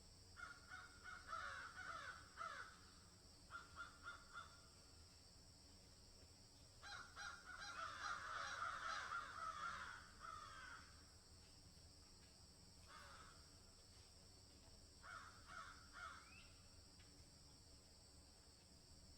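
Birds calling in harsh, rapidly repeated bursts, loudest and longest in the middle, over a steady high hiss.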